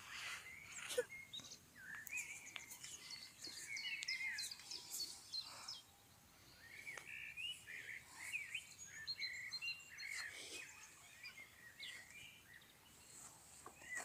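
Songbirds chirping and warbling in many short calls, with a few soft knocks and rustles close by, the sharpest about a second in.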